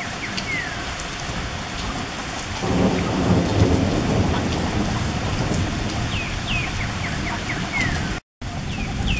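Steady rain falling, with a low rumble of thunder building in about two and a half seconds in and carrying on. A few short, high, falling chirps come through now and then.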